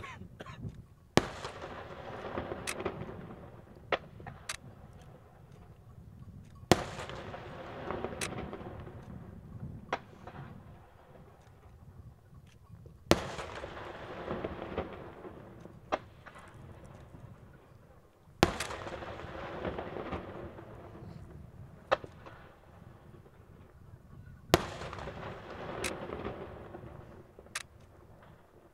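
Aerial firework shells bursting high in the air: five loud booms about every six seconds, each trailing off in a few seconds of echo, with smaller single cracks in between.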